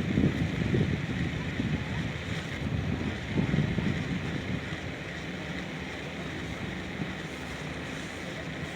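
Wind buffeting the microphone over a steady outdoor rush of noise, gusting strongly in the first few seconds and then settling into a steadier hiss.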